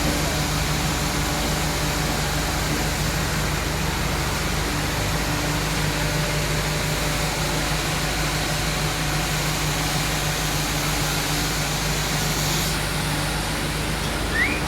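Sawmill machinery running steadily with a constant low hum. A short rising squeak comes near the end.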